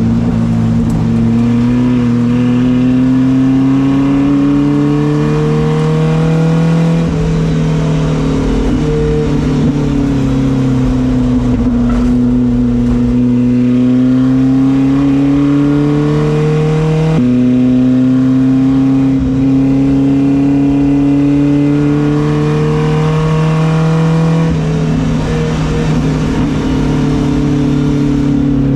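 Car engine running hard under load, its pitch climbing slowly and dropping back three times, as with gearshifts or lifts while being driven on track.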